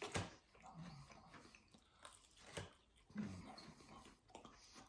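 Faint close-up chewing and biting on a fried chicken wing, with a few short, irregular crunches and mouth sounds.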